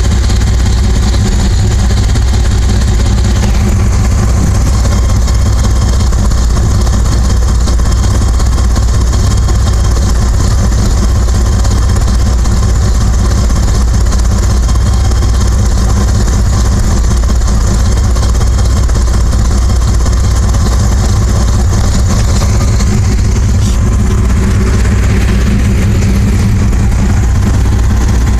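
1996 Dodge Ram 1500 engine idling through a cut exhaust that dumps under the truck just after the catalytic converter: a loud, steady, deep rumble. The phone mic is overloading close to the pipe, which distorts the sound.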